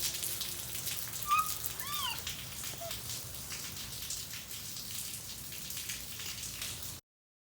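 Steady rain with the patter of drops, and a few short chirps about a second in. The rain cuts off suddenly near the end.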